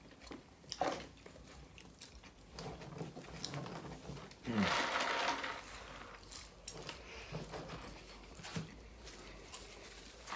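People chewing and biting fast food, a burger and fries, with small scattered crunches and mouth clicks, and one louder burst of noise about halfway through.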